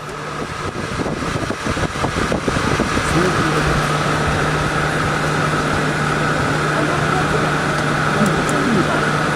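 Crowd chatter in a busy exhibition hall, fading in, with a steady low hum joining about three seconds in.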